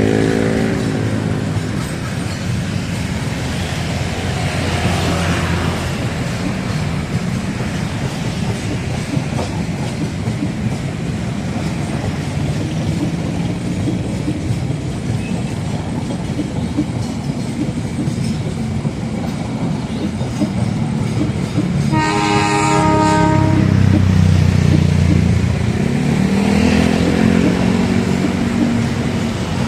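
A train running past, its wheels clattering over the rail joints, with a short blast of the locomotive horn about twenty-two seconds in.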